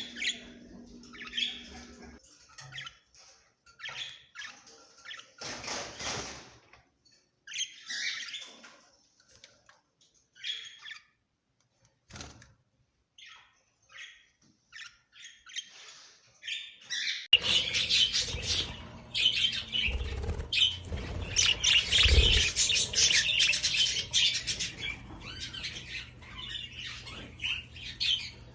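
Caged birds chirping and chattering: scattered calls with a couple of brief rustles or wing flutters, then a much louder, dense chorus of chirps from about 17 seconds in, over a low steady hum.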